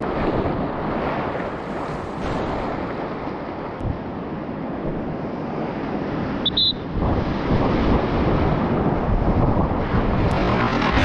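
Rushing river whitewater at high water with wind buffeting the microphone; the low rumble grows heavier about seven seconds in. A brief high beep sounds just past halfway.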